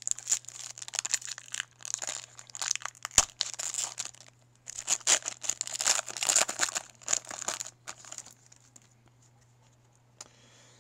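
A trading-card pack's wrapper being crinkled and torn open, in two spells of rustling with a short pause about four seconds in, then dying away.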